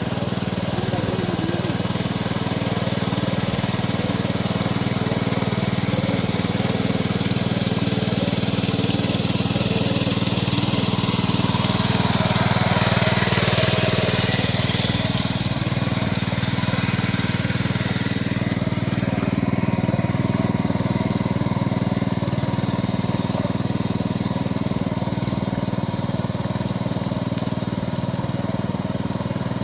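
Power weeder's small engine running steadily, swelling a little louder for a couple of seconds about twelve seconds in.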